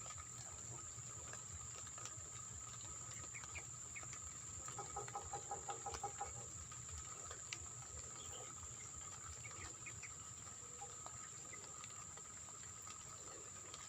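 Faint outdoor ambience with a steady high-pitched insect drone. About five seconds in comes a short run of rapid, repeated calls from a bird, followed by a few scattered chirps.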